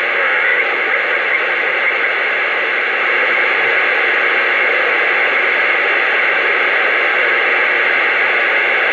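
CB radio receiver static: a steady hiss from the speaker with no station coming through, the sign of poor band conditions.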